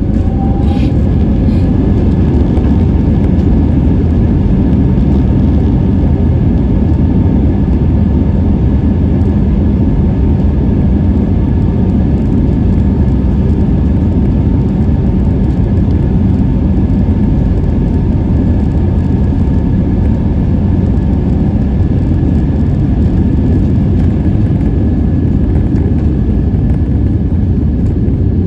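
Airbus A320 jet engines and airflow heard from inside the cabin: a loud, steady roar with faint steady whine tones on top.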